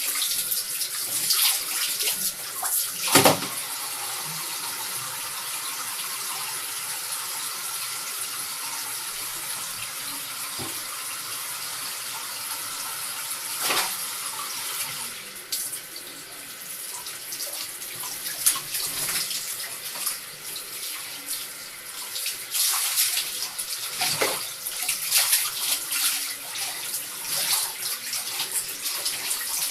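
Tap water running into a bath while a cat is washed, with splashing and sloshing throughout and a sharp knock about three seconds in.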